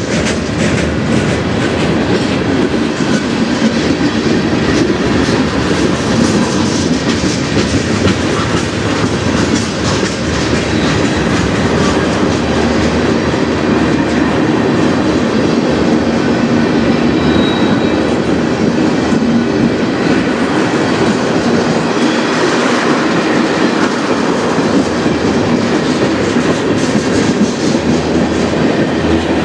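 Freight train of tank cars and boxcars rolling past: a steady, loud rumble of steel wheels on rail with rapid clickety-clack as the wheels cross the rail joints.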